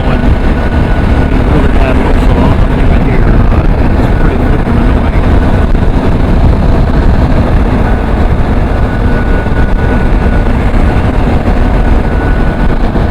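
Motorcycle engine running steadily under way, with heavy wind rush over the rider's microphone.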